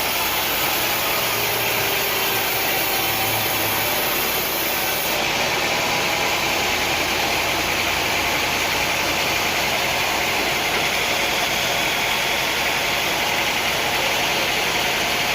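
Sawmill machinery running steadily: a constant engine-like drone with a loud hiss, without separate cutting strokes.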